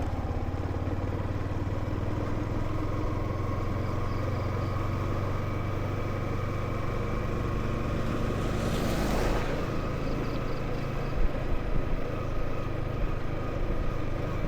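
Motorcycle engine running steadily under wind and road noise, heard from on the bike. About nine seconds in there is a louder rushing swell and the engine note changes, followed by a few sharp knocks, like jolts over a rough surface.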